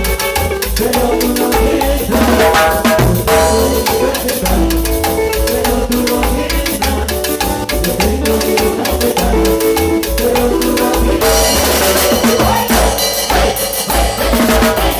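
Cumbia band playing an instrumental passage with a steady beat, bass and drums under repeating melodic lines, the cymbals getting brighter and busier about two-thirds of the way through.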